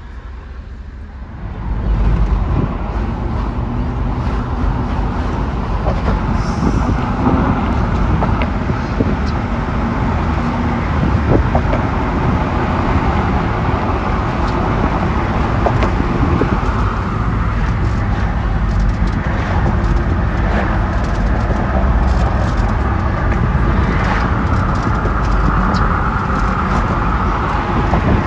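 Wind blowing hard and steadily, with a deep rumble; it swells sharply about two seconds in.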